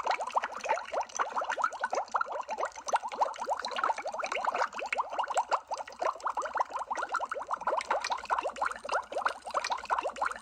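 Underwater bubbling sound effect: a dense, unbroken stream of bubbles, each a short blip rising in pitch, several every second.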